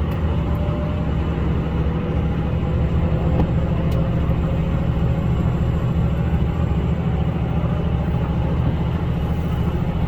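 HOT7000 series diesel railcar running: a steady low rumble of its diesel engines and running gear, with a faint whine that rises slowly.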